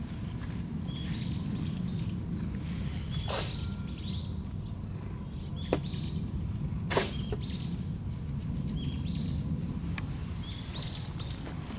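A small bird calling over and over in short, high chirps that step up in pitch, one every second or two, over a steady low rumble. A couple of sharp knocks stand out about six and seven seconds in.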